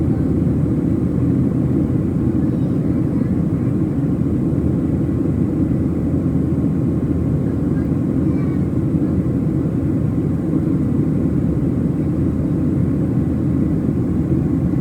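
Steady cabin drone of a Boeing 737-700's CFM56-7B engines and rushing air, heard from inside the passenger cabin during the climb after takeoff.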